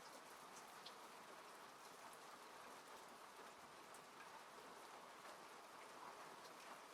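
Faint, steady rain falling on a car, heard from inside the cabin: an even patter with scattered single drop ticks.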